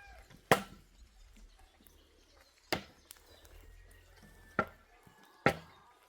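Four sharp chopping blows at uneven intervals, the first and last the loudest.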